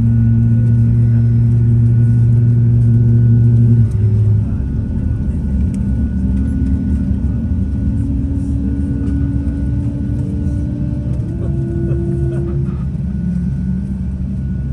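Jet airliner engines running with a loud, steady low rumble and drone. About four seconds in the drone changes pitch abruptly, and then a tone slowly rises.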